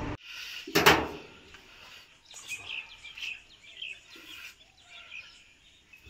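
Small birds chirping faintly, in short scattered calls, with one brief loud noise a little under a second in.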